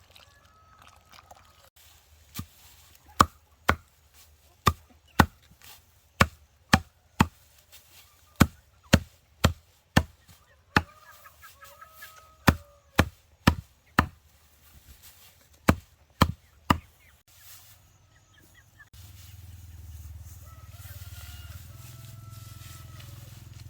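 A series of sharp tool blows, about two a second, such as hammering or chopping while building, stopping about 17 seconds in. A steady low hum starts a couple of seconds later.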